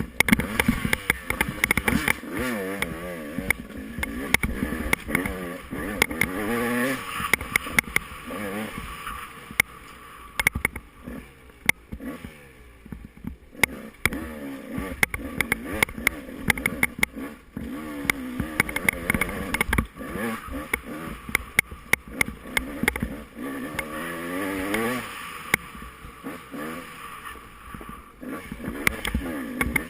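Off-road dirt bike engine being ridden hard, its pitch rising and falling again and again as the throttle is opened and closed, with frequent sharp knocks and rattles from the rough ground. The engine eases off briefly near the middle.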